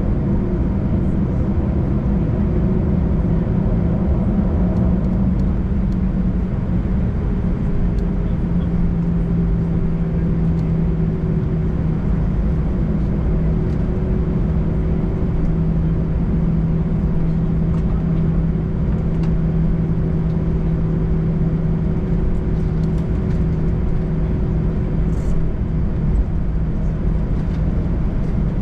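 Jet airliner's engines heard from inside the passenger cabin: a steady drone with a low hum holding one pitch.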